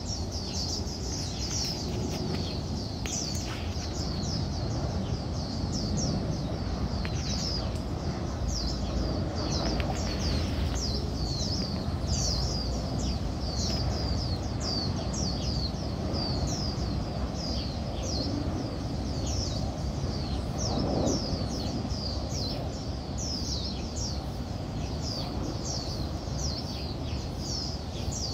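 Birds chirping: quick high chirps, each falling in pitch, repeated about twice a second, over a low steady outdoor rumble.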